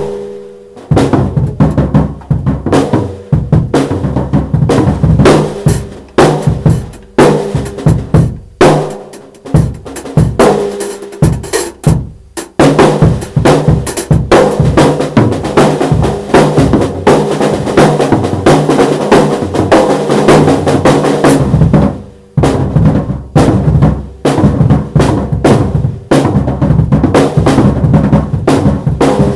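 Drum kit played in fast, dense strikes and fills, bass drum and snare together, with a few short breaks along the way.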